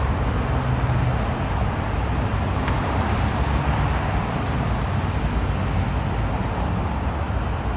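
Heavy diesel paving equipment running steadily: a low engine rumble, strongest in the first second or so, over a constant mechanical hum.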